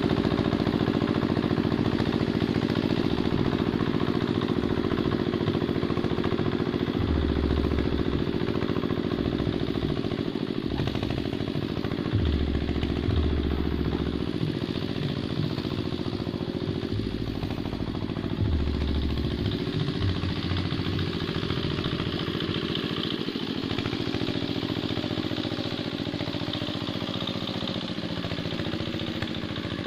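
Hand tractor's single-cylinder diesel engine running steadily under load while plowing a wet rice paddy. A deeper, heavier pulse comes in a few times in the middle, and the sound slowly gets quieter toward the end.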